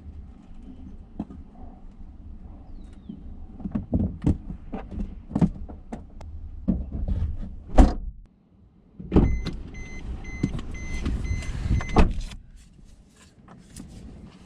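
Airliner cabin noise during the landing: a steady low rumble with repeated knocks and rattles.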